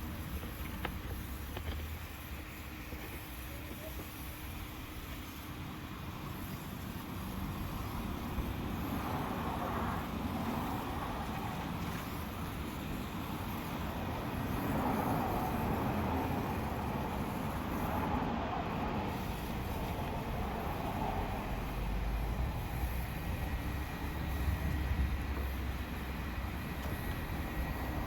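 Steady rumble of vehicles, like traffic, swelling and easing a little at times.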